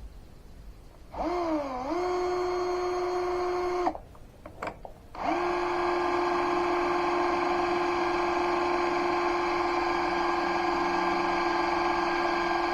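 Electric drill motor running with a steady whine: a run of about three seconds whose pitch sags briefly at the start as the bit bites, a short blip, then a long steady run of about eight seconds.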